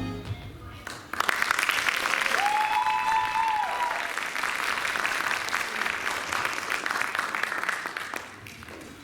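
Audience applauding after the music stops, starting about a second in and dying down near the end. A single held high note, rising slightly, sounds over the clapping about two and a half seconds in.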